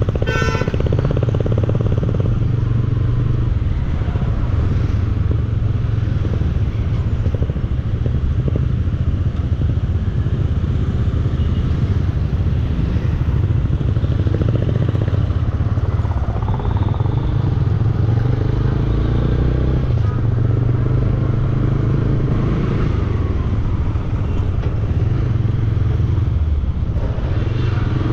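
Bajaj Dominar 400 single-cylinder motorcycle engine running steadily on the move, with road noise. There is a brief sharp, high sound right at the start.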